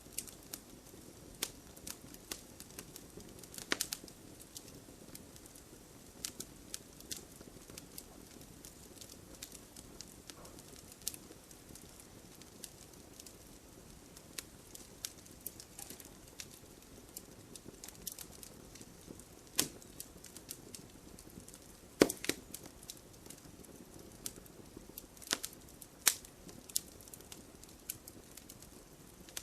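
Wood fire burning in a fireplace, the logs crackling with irregular sharp pops over a soft, steady hiss. A few louder pops stand out in the last third.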